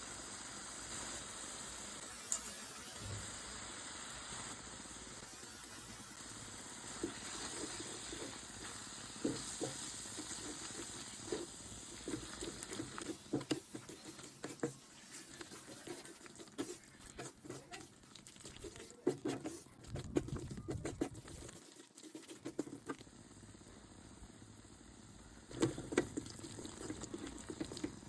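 Chicken curry cooking in a pan: a steady sizzling hiss, with a run of short knocks and clicks from about halfway through.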